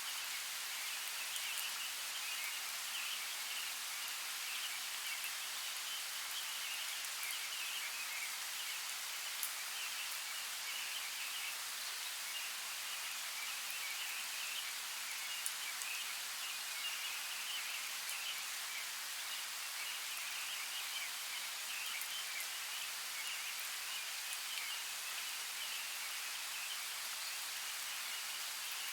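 Steady hiss of flowing creek water, with a continuous high chittering over it and a few faint clicks.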